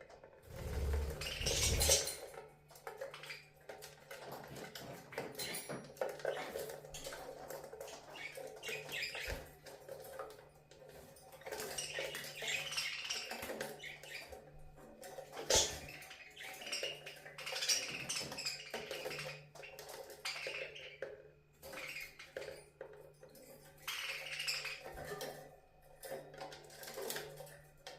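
Budgies playing and bathing in their cage: irregular clattering, clinking and tapping of cage items and dishes, with a faint steady hum underneath.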